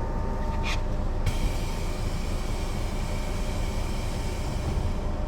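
Mercedes-Benz O 405 NÜ low-floor bus under way, its diesel engine and running gear making a steady low rumble. Just under a second in there is a short high hiss, and then a faint steady high whine joins the rumble.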